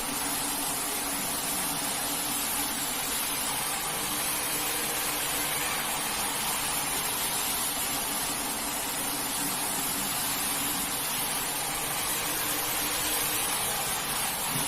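Steady rush of water from a high-pressure washer spraying onto a carpet, with a faint hum from the pump motor running underneath.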